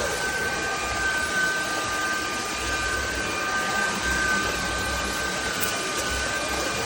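SMOTURE cordless stick vacuum running steadily: a constant motor whine over the rush of air.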